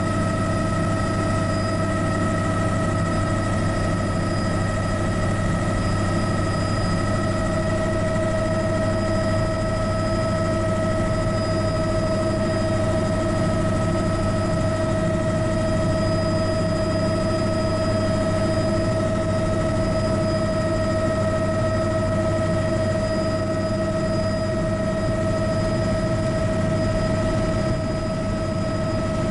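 Bell 206B helicopter's Allison 250 turboshaft engine and rotors running steadily, a deep rumble under a high, steady turbine whine.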